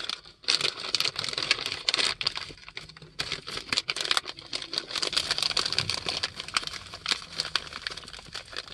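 Crinkling of a Rap Snacks chip bag being handled: a dense, unbroken run of irregular crackles.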